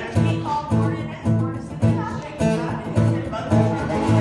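Acoustic guitar strumming a country song's intro in a steady rhythm, a chord stroke about every half second with a bass line under it.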